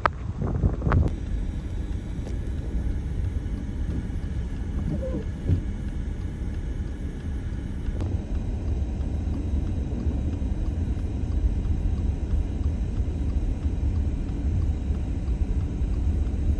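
Steady low rumble of a car driving, with a few short knocks in the first second.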